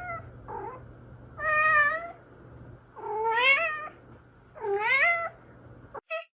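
Domestic cat meowing repeatedly: a faint meow, then three louder drawn-out meows about a second and a half apart, the last two rising in pitch.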